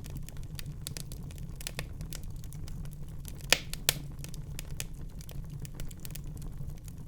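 Fire crackling in a fireplace: a steady scatter of small crackles over a low rumble, with two louder pops about three and a half seconds in.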